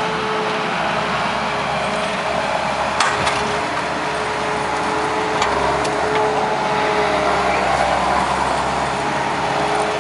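Takeuchi TL150 compact track loader's diesel engine running steadily under work, with a steady whine over it. Sharp clanks come about three seconds in and twice more around five to six seconds in.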